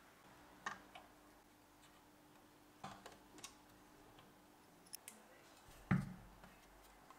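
Scattered light clicks and taps, then a single heavier dull thump about six seconds in, over a faint steady hum.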